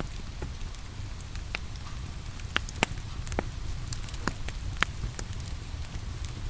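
Wood fire crackling, with sharp pops scattered through it; the loudest come a little before 3 s and just before 5 s. Under it run a steady hiss of rain and a low rumble.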